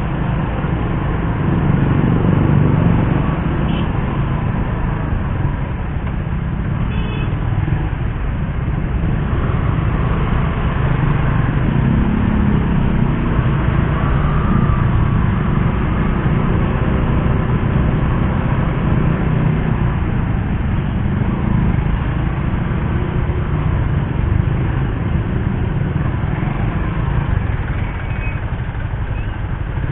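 Suzuki GSX-R150's single-cylinder four-stroke engine running steadily while the motorcycle is ridden, with small rises and falls in revs.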